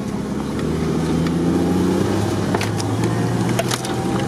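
Engine of an off-road 4x4 running steadily at low speed, heard from inside the cab while it drives over a rough forest track, with a few sharp knocks or clicks about two and a half and three and a half seconds in.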